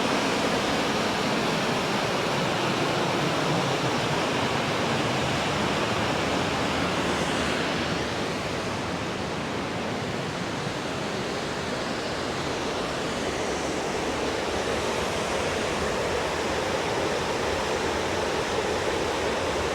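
Waterfall rushing: a steady, dense wash of falling water with no let-up.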